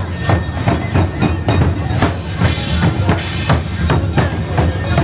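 Drums beaten in a rapid, even rhythm, about three strokes a second, with a brief higher hiss about halfway through.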